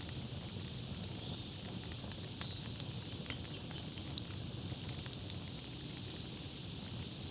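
Campfire crackling: scattered sharp pops and snaps over a steady low rumble and hiss of burning wood.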